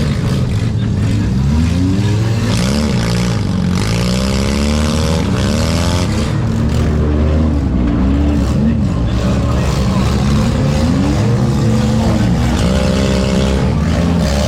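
Several four-cylinder demolition derby cars' engines running together, revving up and down in pitch as they accelerate and back off.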